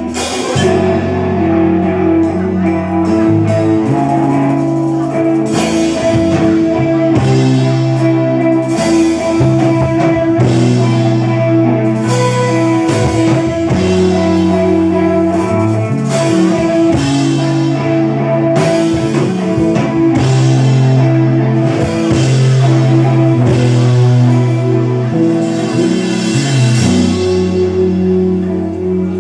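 Live rock band playing a song: guitar, bass and drum kit, starting right at the beginning and running loud and steady.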